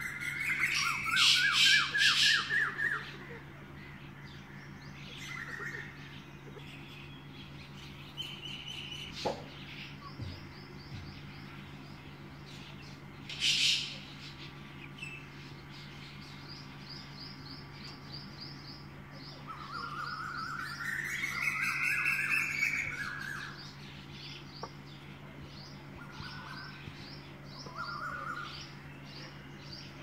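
Birds calling in an aviary: loud runs of quickly repeated calls in the first few seconds and again about two-thirds of the way through, with lighter high chirping in between. A steady low hum runs underneath.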